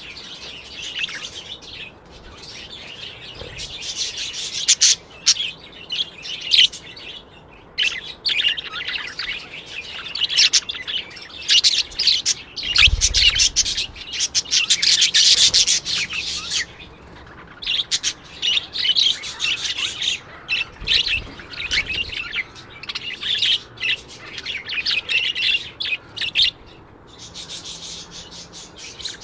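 Many small birds chirping and twittering in a dense, rapid chatter, with a few short lulls.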